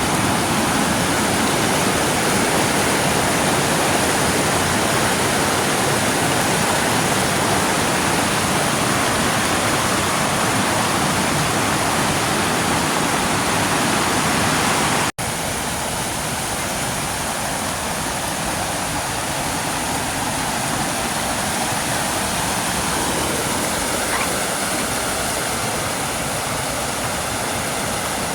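Waterfall, water rushing steadily. It cuts out for an instant about halfway through, then continues a little quieter.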